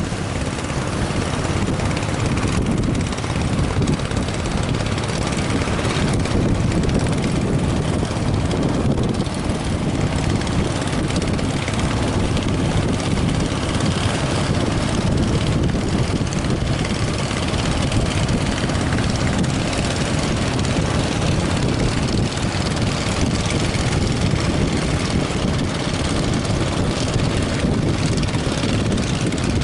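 Steady loud drone of a fishing boat's engine, mixed with wind buffeting the microphone.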